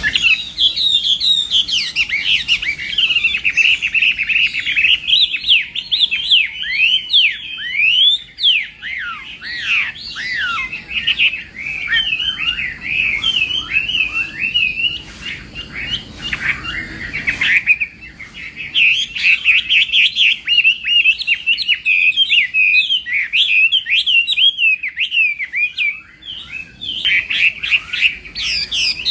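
Chinese hwamei singing a long, rapid, varied song of quick whistled notes and sweeping glides, broken by a few short pauses.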